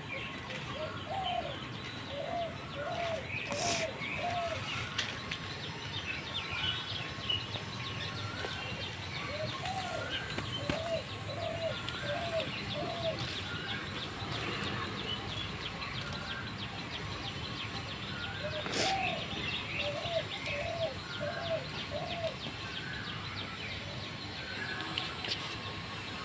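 Birds calling: one bird repeats a phrase of five or six hooting notes three times, with other birds chirping higher. Two sharp clicks stand out, about four seconds in and near nineteen seconds.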